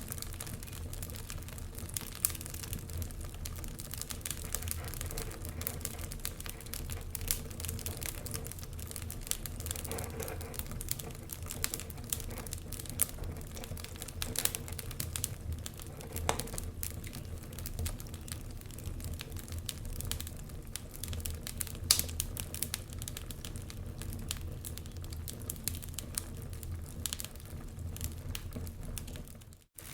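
Wood logs burning in a fireplace: steady crackling over a low rumble of the flames, with a sharper crack now and then. The sound cuts out for a moment near the end.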